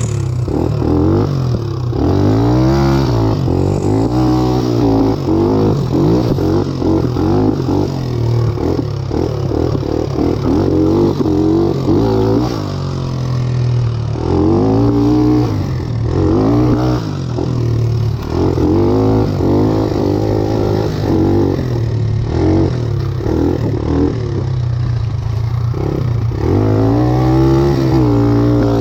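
Satoh S650G tractor's engine being revved up and down again and again, its pitch rising and falling in swells every second or two while the tractor is driven hard.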